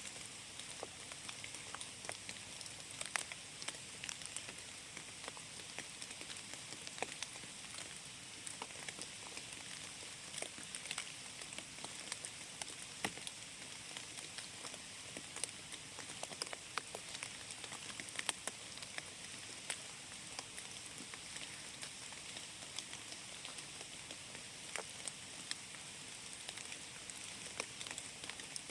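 Steady rain falling in a forest: an even hiss with many sharp, irregular drop impacts scattered through it.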